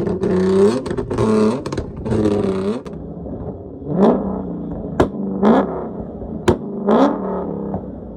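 A performance car engine revved hard and held high for a few seconds, then blipped three times in quick rising revs, with sharp exhaust bangs between the blips.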